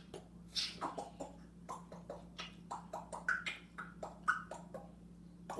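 Pet talking bird chattering: a rapid, irregular run of short clicks and brief chirps, with no clear words.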